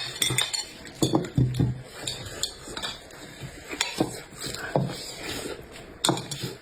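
Eating sounds: cutlery clicking and scraping against dishes, with several sharp clicks spread through.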